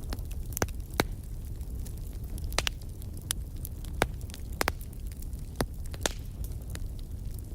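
Firewood burning: a steady low rumble with irregular sharp crackles and pops from the logs, about ten of them, unevenly spaced.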